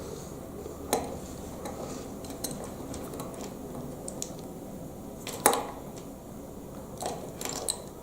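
Loose plastic Lego Technic pieces rattling and clicking as they are handled and sorted through, with scattered sharp clicks, the loudest about five and a half seconds in.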